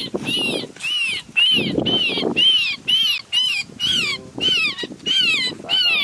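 A trapped small bird held in the hand calling over and over in distress, about two harsh calls a second, each call rising and then falling in pitch.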